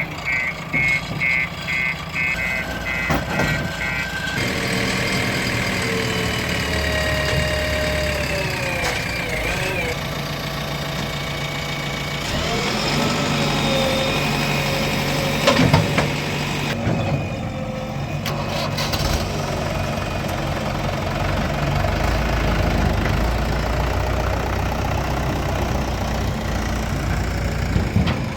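Diesel engines of a JCB 3DX backhoe loader and tractors running, the engine note rising and falling as the machines work. A rapid high-pitched beeping sounds during the first four seconds.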